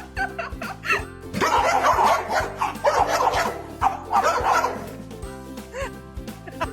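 Background music with a steady beat, with a dog barking over it.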